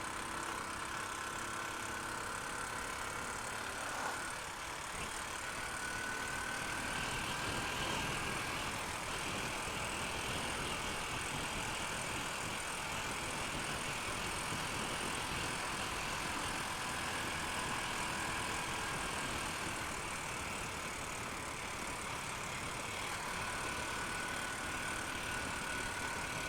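Honda Unicorn motorcycle's single-cylinder engine running at a steady cruising speed, mixed with constant wind and road noise.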